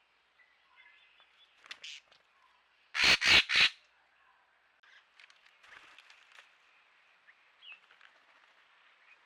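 Racket-tailed treepie giving a loud, harsh call of three quick notes about three seconds in, with a shorter call before it and faint chirps of small birds around the pool.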